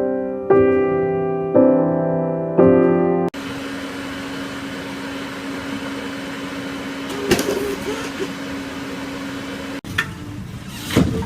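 Electric piano chords struck about once a second, cutting off abruptly a little over three seconds in; after that, a steady hum with a low constant tone, broken by a brief sound about seven seconds in and another abrupt cut near the end.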